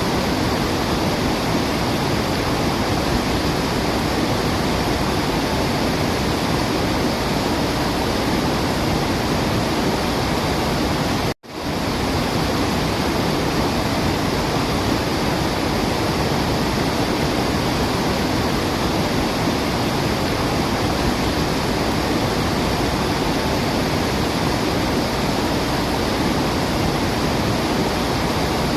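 A waterfall rushing, a steady, dense roar of water. About eleven seconds in, it cuts out abruptly for a split second and comes straight back.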